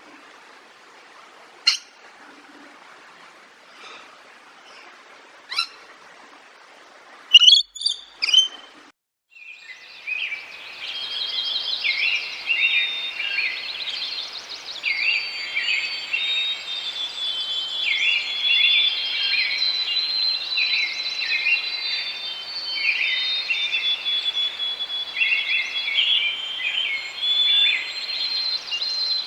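Bird calls: a few scattered chirps at first, with a cluster of louder calls around the eighth second. After a brief break, a dense chorus of many songbirds singing at once carries on to the end.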